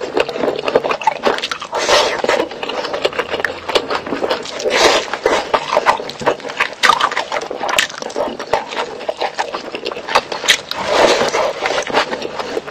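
Close-miked eating sounds of rice and chicken curry eaten by hand: wet chewing and lip smacking, full of short clicks.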